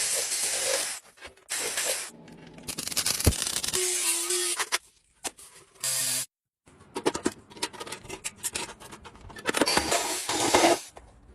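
Hand-tool restoration work on rusty metal: short bursts of hissing, rubbing and scraping, broken by abrupt cuts, with a moment of dead silence about six seconds in.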